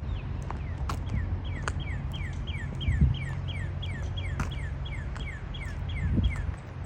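A bird singing a fast, even series of clear notes that slide downward, about three a second, stopping shortly before the end. Underneath there is a low steady hum and two dull thumps.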